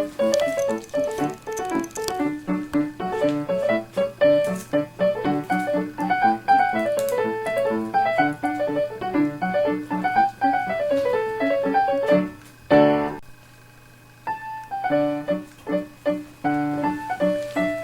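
Background piano music with quick running notes, briefly breaking off about two-thirds of the way through before starting again.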